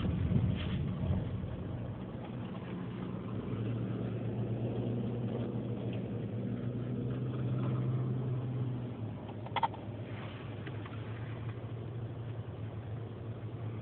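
Car engine and road noise while driving, a steady low hum whose engine note grows stronger for several seconds in the middle. A single short click comes about nine and a half seconds in.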